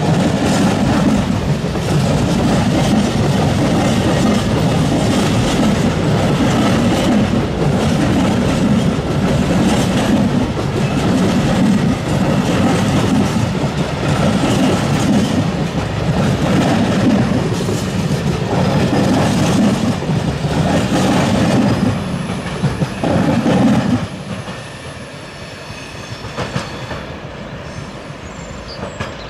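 Train passing at close range, its wheels clattering over the rail in a regular beat about every two seconds. The last of the train goes by about 24 seconds in and the sound drops to a fainter rumble.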